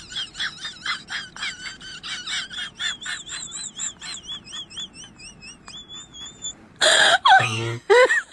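Rapid, repeated high chirps, about four a second, with a warbling whistled tone, like a small bird calling. A louder, brief sound comes near the end.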